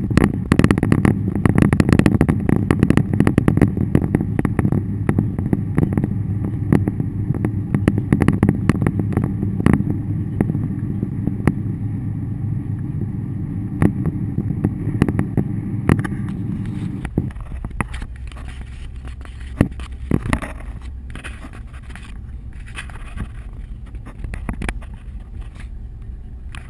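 Vehicle driving, heard from inside: a steady low rumble of engine and tyres, with many sharp ticks throughout. About 17 s in, the rumble drops and the sound gets quieter, with only scattered ticks.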